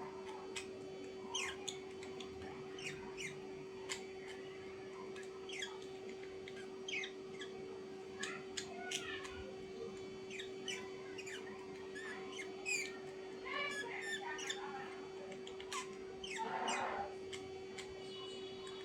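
Birds chirping in many short, quick calls, with a harsher squawk near the end, over a steady hum.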